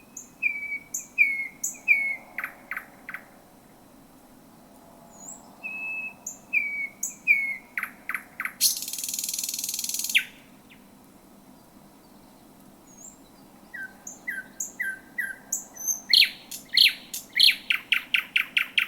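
Thrush nightingale singing: phrases of short whistled notes and hard clicks with pauses between them, a harsh rasping buzz about nine seconds in, and a fast run of loud clicking notes near the end. A faint steady low hum lies underneath.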